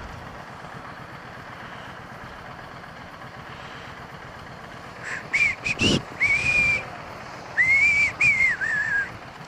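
Someone whistling a short tune close to the microphone: a few quick notes, then longer held and falling ones, over steady motorcycle road and wind noise. A single thump comes between the first notes.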